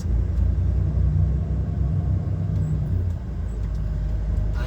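DAF XF 530 lorry's PACCAR MX-13 six-cylinder diesel engine running under way, heard from inside the cab as a steady low drone; the note eases a little about three seconds in.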